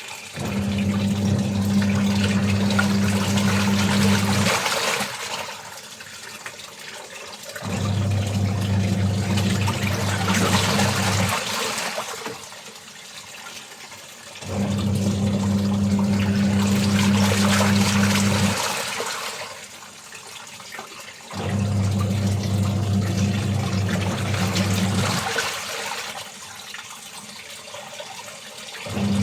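Washing machine mid-wash: the motor hums and the drum turns with water sloshing for about four seconds, then stops for about three, over and over, four times.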